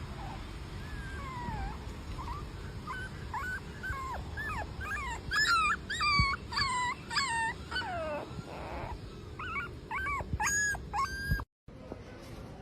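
A dog whining and whimpering in a run of short, high-pitched cries that bend up and down in pitch. The cries grow louder about halfway through, pause briefly, come again in a second run, then cut off suddenly.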